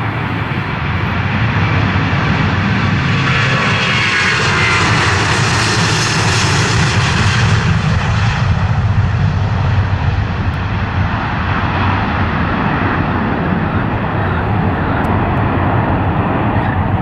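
Aircraft passing close by: a loud engine noise that grows brighter toward the middle, its pitch sliding down as it goes past, then fading to a duller rumble that carries on to the end.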